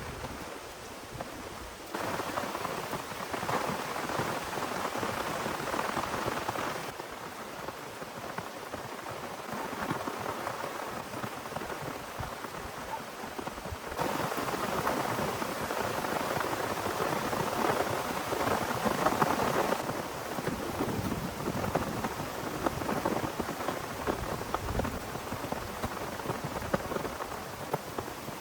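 Heavy rain pouring steadily in a dense hiss. The loudness jumps up or down abruptly every few seconds.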